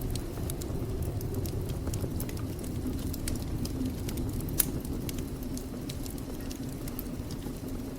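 Wood fire in a fireplace crackling, with irregular small pops and one sharper pop about halfway through, over a steady low rumble.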